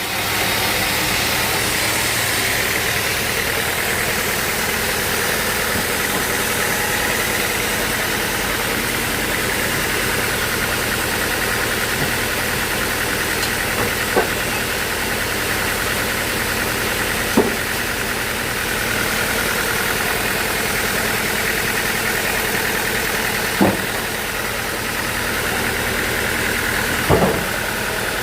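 Bandsaw sawmill running steadily, with four short sharp knocks in the second half.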